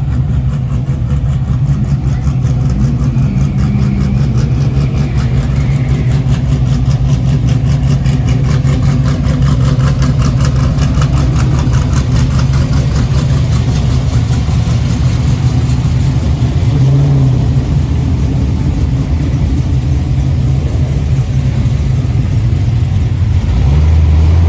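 Several car engines idling loudly in a queue, a steady deep rumble, with brief rises in revs a few seconds in and again about two-thirds of the way through.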